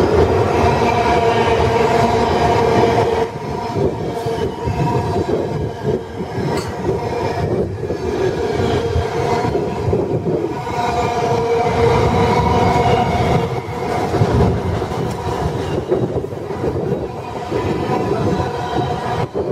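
Freightliner Class 90 electric locomotive and its freight train passing through a station: a loud, continuous rumble and clatter of wagons on the rails. Steady ringing tones sound over it, strong at the start, fading about three seconds in, and returning for several seconds in the middle.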